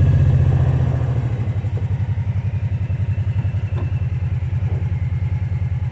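Kawasaki Teryx side-by-side's V-twin engine easing off about a second in, then idling with a steady low pulse.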